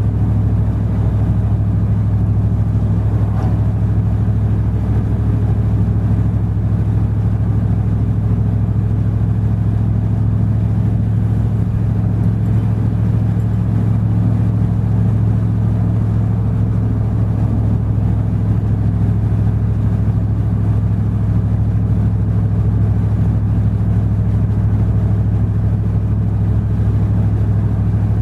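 Truck being driven, its engine and road noise making a steady low drone with no change in pitch.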